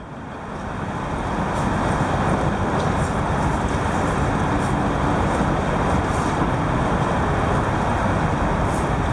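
Steady road traffic noise, fading in over the first couple of seconds.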